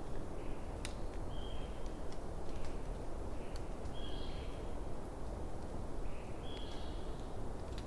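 Wood fire burning with a steady low rumble and occasional sharp crackles and pops. Over it, a short high call sounds three times, about every two and a half seconds.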